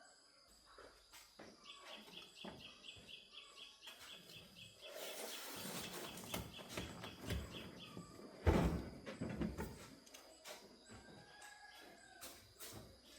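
Outdoor ambience with birds chirping, including a fast run of high repeated chirps, over scattered clicks and knocks of handling. A louder thump comes about eight and a half seconds in.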